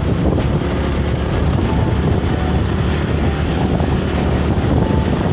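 Motorcycle riding along at a steady pace, its engine and road noise mixed with wind rushing over the microphone.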